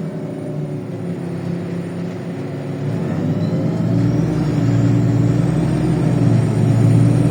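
LiAZ 5292 city bus engine heard from inside the cabin, running steadily and then pulling harder about three to four seconds in, its low drone growing louder as the bus accelerates.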